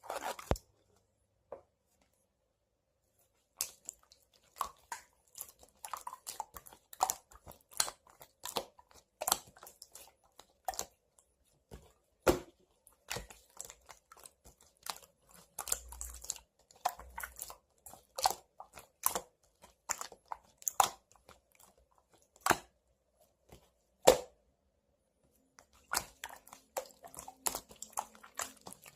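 Irregular sharp crackles and crunches close to the microphone, one to three a second, after a quiet pause of a few seconds near the start.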